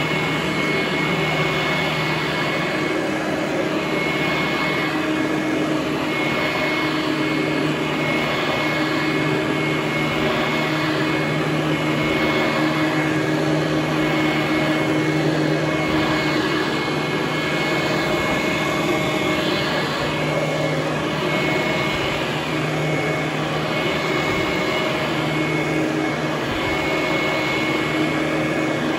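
Vintage Hoover Conquest commercial direct-air vacuum cleaner running on carpet: a steady motor and fan hum with a faint high whine, swelling a little now and then.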